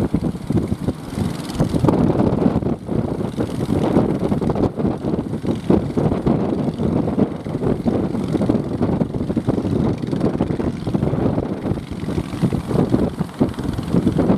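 Strong wind buffeting the microphone over the steady running of a small boat's engine.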